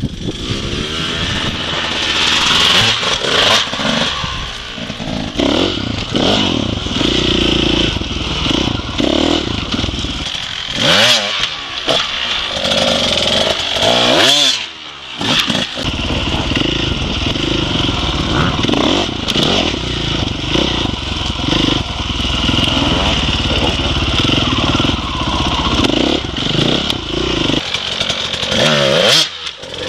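Dirt bike engine running and being revved, its pitch rising and falling repeatedly as the throttle is worked, with a brief drop in the revs about halfway through.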